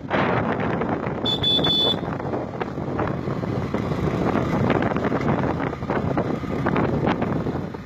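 Wind buffeting the microphone on a moving motorbike, a steady gusty rush with riding noise underneath. A short high-pitched beep sounds about a second and a half in.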